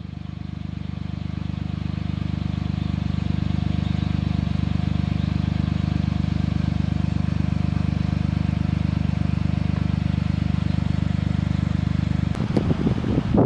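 Suzuki Jimny JB23's small three-cylinder engine running steadily with a low, even drone. About a second before the end it gives way to a rougher, louder rumble.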